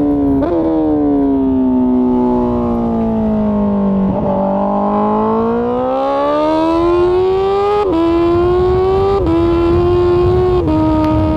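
Honda CBR1000RR-R Fireblade's inline-four engine on the move: a short blip, then the engine note falls for about four seconds as the bike slows, before it climbs again under acceleration, broken by three quick drops in pitch as it shifts up through the gears.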